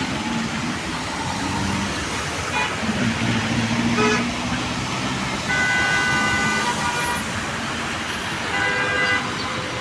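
Road traffic with car horns honking: a long honk about halfway through and a shorter one near the end, over a steady hiss and the hum of engines.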